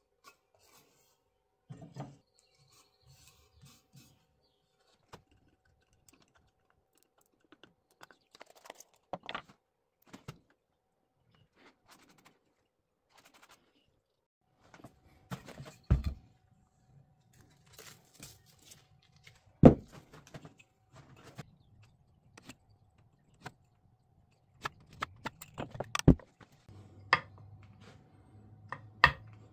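Scattered knocks, clicks and thuds of wooden workpieces and tools being handled and set down on a workbench, with a few sharper knocks in the second half, the loudest about two-thirds of the way through.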